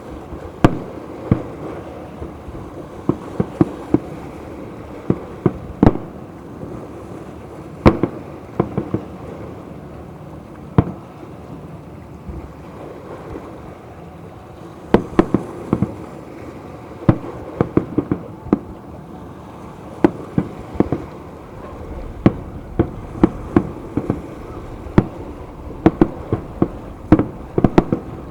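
Fireworks shells bursting with sharp, irregular bangs, some single and some in quick clusters, thinning out for a few seconds near the middle, over a steady background hiss.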